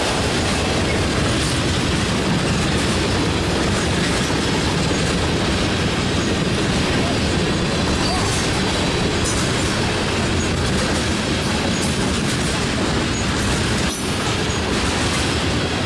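Freight train cars (autoracks, covered hoppers and tank cars) rolling past at close range: a loud, steady noise of steel wheels running on the rails.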